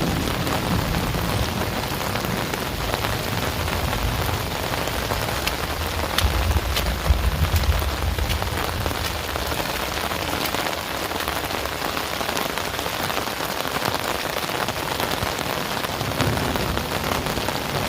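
Heavy rain pouring steadily, with a low rumble of thunder in the first half that peaks about seven seconds in and dies away.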